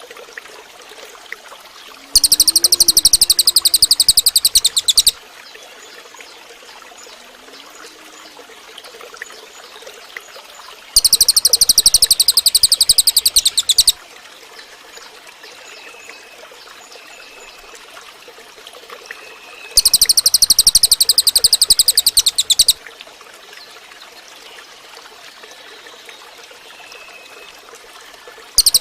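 Cililin song: a fast, rattling trill of very rapid high notes lasting about three seconds. It comes three times, about nine seconds apart, over a steady background hiss like running water. Faint short whistles sound in between.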